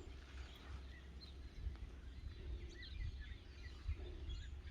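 Quiet outdoor ambience: a steady low rumble with faint, scattered bird chirps, most of them in the middle.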